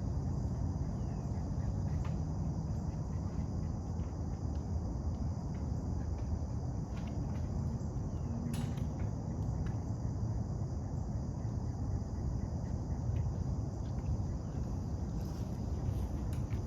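A steady high insect chorus over a low, even rumbling noise, with scattered faint clicks and taps.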